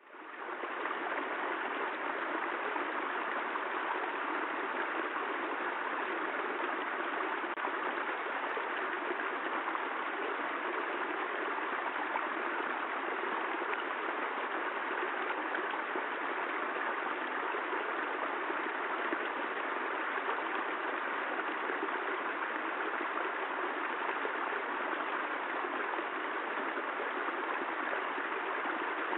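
Steady rushing water noise, as of continuous rain or running water, even and unbroken; it fades back up in the first half second after a brief dropout.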